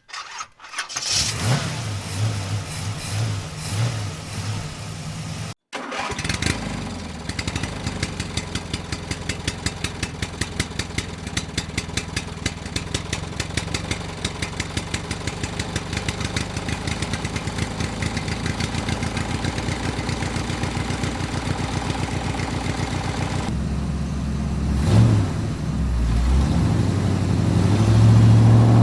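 Tractor engine running with a steady, fast putter, starting after a short break about six seconds in. It gets heavier and louder in the last few seconds.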